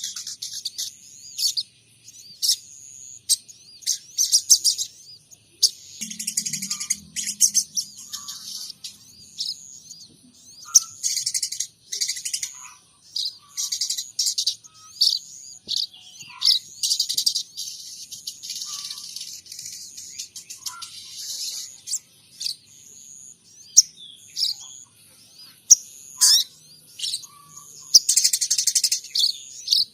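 A sogon trotol songbird singing long, busy strings of high chirps and twitters, mimicking the calls of munias (pipit) and tree sparrows (greja).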